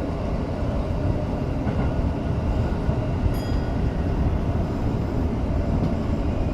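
Tokyo Metro 05 series electric train running at speed, a steady low rumble of wheels on rail heard from inside the car. About three seconds in there is one brief high-pitched squeak.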